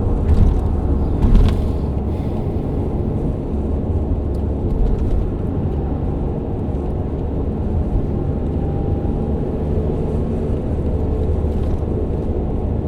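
Alfa Romeo GTV 3.0 V6 engine running steadily with a deep, even rumble. Two short knocks sound about half a second and a second and a half in.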